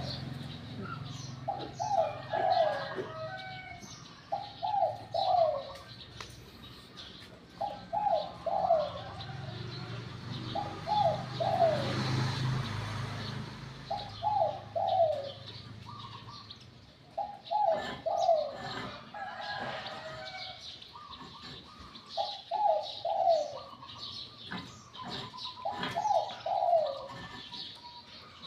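Spotted dove singing its cooing phrase over and over, a short run of low descending coos every two to three seconds, in the small, sweet-voiced 'liu tan' style. Other small birds chirp faintly in the background.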